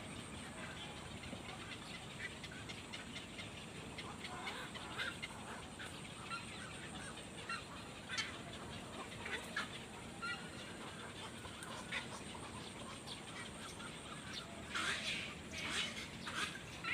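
Short bird calls, scattered through a steady background hiss, with a louder run of calls near the end.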